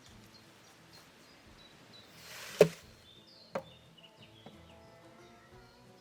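A hand tool is swung and strikes wood sharply, then strikes a second, lighter blow about a second later and a faint third after that. Soft music and faint high chirps run underneath.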